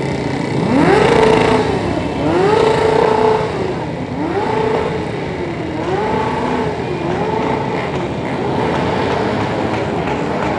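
Motorcycles of a caravan riding by, engines running, with a pitched sound that rises, holds and falls again about every second and a half, loudest at the start and fading toward the end.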